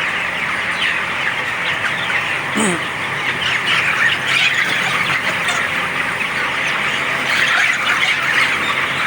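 A large flock of young chickens cheeping continuously, with many overlapping calls, and one lower falling squawk a few seconds in.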